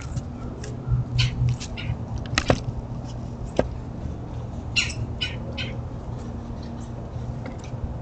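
Short bird calls in two clusters of three or four quick notes, about a second in and again about five seconds in, with two sharp clicks between them and a steady low hum underneath.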